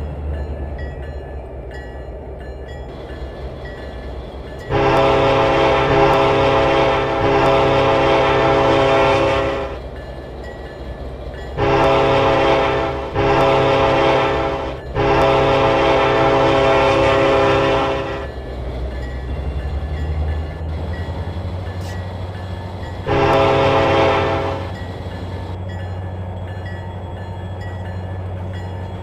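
Diesel freight locomotive's multi-tone air horn sounded five times: a long blast, two short ones, another long one, then a short one. A low steady rumble from the passing train runs underneath.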